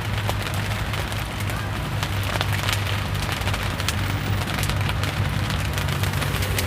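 Rain falling, a steady hiss of rain with many small drop ticks, over a steady low hum.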